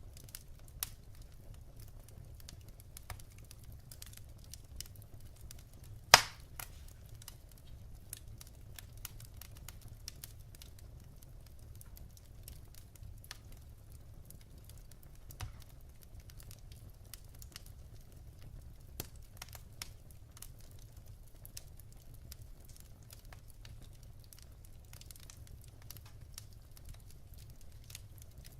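Wood fire in a fireplace crackling, with scattered small pops from the burning logs and one loud sharp pop about six seconds in.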